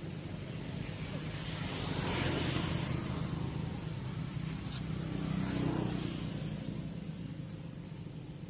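Passing road traffic over a steady low engine hum: two vehicles swell and fade, the louder moments about two and five and a half seconds in.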